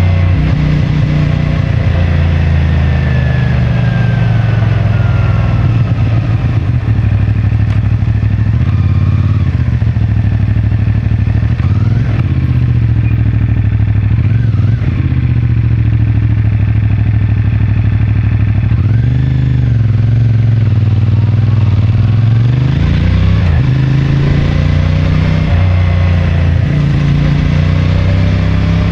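CFMoto 450MT's parallel-twin engine running through its stock exhaust while riding in traffic, its pitch rising and falling with the throttle, dropping about two-thirds of the way in and climbing again shortly after.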